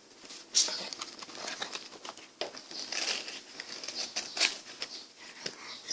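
Close-miked ASMR eating of ice cream: irregular crisp crackles and clicks of frozen ice cream being bitten and chewed, with a sharp crack about half a second in.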